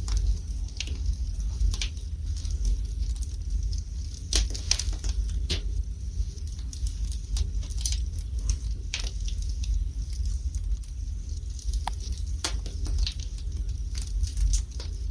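Fire burning in a fireplace: irregular sharp crackles and pops, a few a second, over a steady low rumble.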